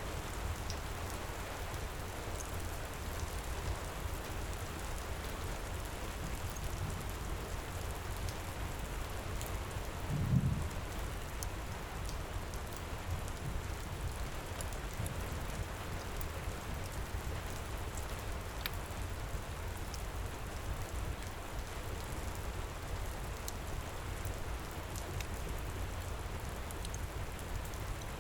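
Heavy rain pouring steadily, with a low rumble underneath and scattered faint ticks. A short low thud comes about ten seconds in.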